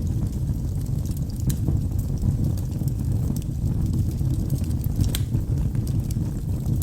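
Wood fire burning in a fireplace: a steady low rumble of flames with a few sharp crackles from the logs, the clearest about a second and a half in and just after five seconds.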